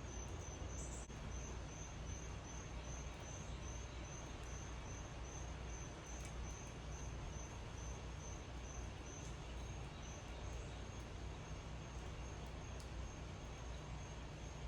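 An insect, cricket-like, chirping steadily in high-pitched pulses about twice a second, over a steady low rumble and hiss of background noise.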